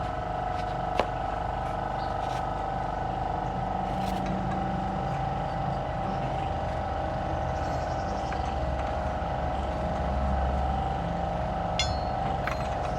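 A machine running steadily with an even mechanical hum, with a sharp click about a second in and another near the end.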